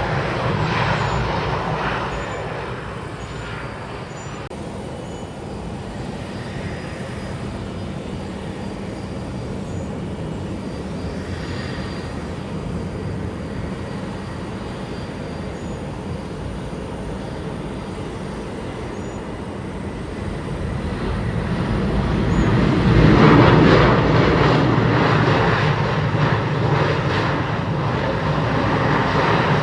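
Jet airliner engines: the noise of one aircraft eases off over the first few seconds, then another builds to its loudest about three quarters of the way through and slowly fades.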